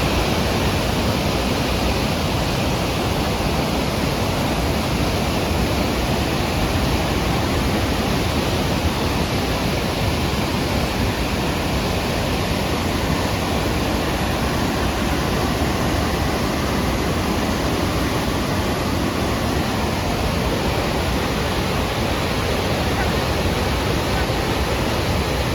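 Lechfall, a stepped weir waterfall on the Lech river, giving a loud, steady rush of falling water without a break.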